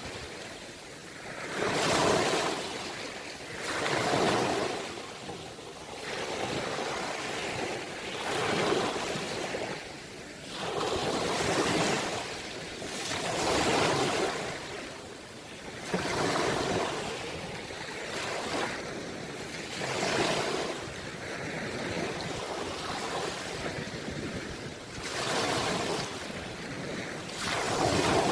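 Sea waves breaking and washing in, the surf swelling and fading again every two to three seconds.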